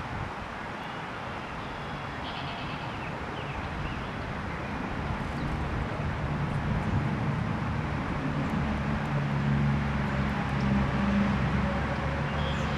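A motor vehicle's engine running, drawing nearer and growing louder from about halfway through, over steady outdoor background noise, with a few faint bird chirps.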